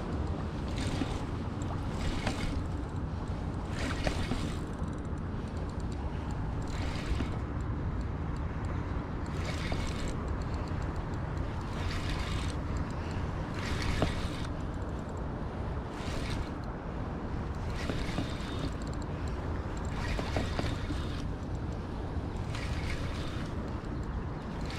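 Steady rush of water with wind buffeting the microphone, and surges of higher hiss every second or two.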